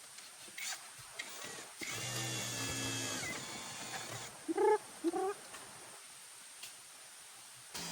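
A steady humming tone for about two seconds, then a cat meowing twice in short rising-and-falling calls, the loudest sounds here.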